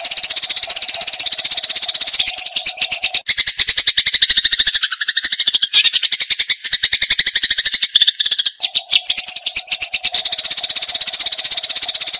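Eurasian tree sparrows giving the fast, harsh, unbroken chatter of fighting birds. The notes come in a rapid rattle throughout, and in the middle stretch a lower wavering chirping joins in.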